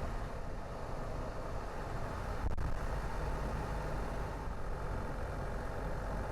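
Car driving, with steady engine and road noise heard from inside the car. There is a brief break and a louder moment about two and a half seconds in.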